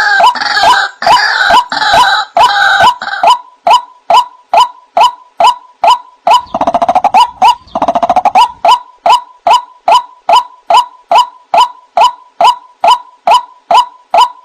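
White-breasted waterhen (ruak-ruak) calling: a steady run of short, loud 'kwak' notes, about three a second. A second bird overlaps at first, and a fast rattling trill comes about six to eight seconds in.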